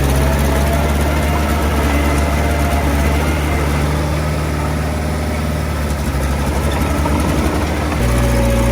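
Small crawler bulldozer's diesel engine running steadily at an even speed, its low drone changing abruptly about eight seconds in.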